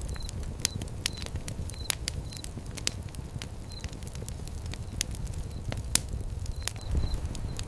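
Wood fire crackling, with frequent sharp pops over a low steady rumble.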